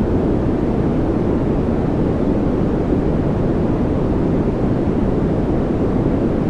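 Steady, unchanging white-noise-style track: an even, deep rushing noise with most of its weight low and little hiss on top, and no change in level throughout.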